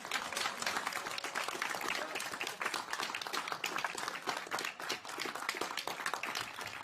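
A room full of people clapping, dense and steady: applause celebrating the confirmed first flight of the Ingenuity Mars helicopter.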